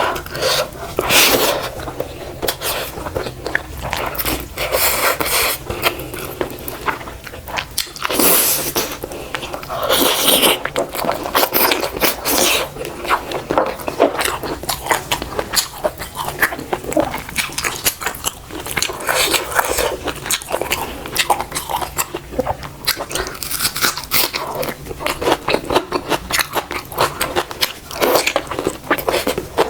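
A person chewing and biting food close to the microphone, with irregular clicks and short wet bursts of mouth noise all the way through, typical mukbang eating sounds.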